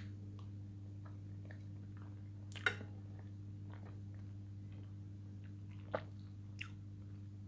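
A person quietly chewing a mouthful of fried food, with a few short soft clicks from the mouth or the fork, the loudest about two and a half seconds in. A steady low electrical hum runs underneath.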